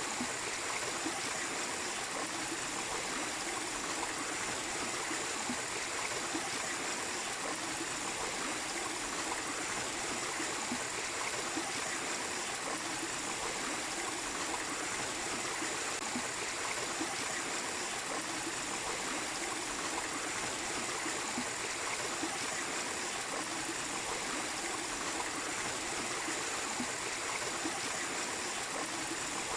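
A small waterfall and stream running steadily, a continuous even rush of water.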